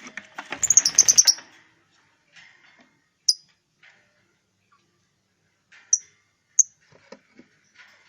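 Lovebirds chirping shrilly: a quick run of sharp chirps about a second in, then single sharp chirps every few seconds.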